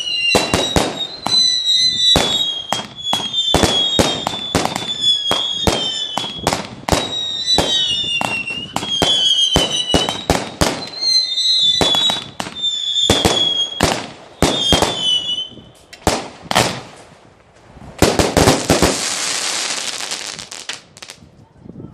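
A 100-shot firework barrage cake firing: rapid bangs, a few a second, with wavering whistles over them, until about three-quarters of the way through. A few last bangs follow, then near the end a burst of hissing crackle that fades away.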